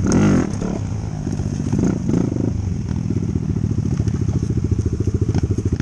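Dirt bike engine running at low revs: a brief louder burst at the start, then a steady, fast chugging beat.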